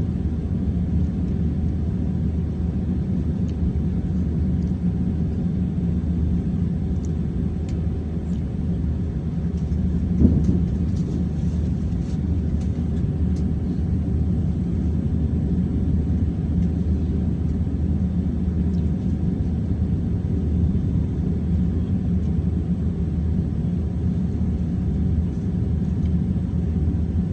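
Airliner cabin noise: a steady low rumble from the idling jet engines and cabin air, with a brief thump about ten seconds in.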